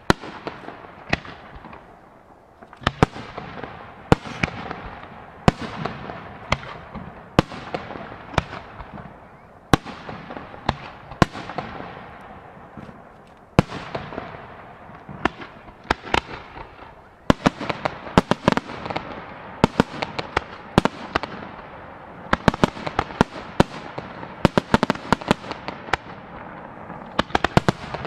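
Fireworks display: aerial shells bursting in sharp bangs one after another at irregular intervals, each trailing off. Past the middle the bangs come thick and fast in a rapid volley.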